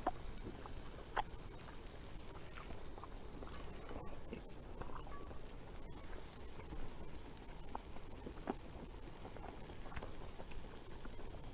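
A person chewing a mouthful of steak: faint, scattered small clicks and crackles over a low steady hiss.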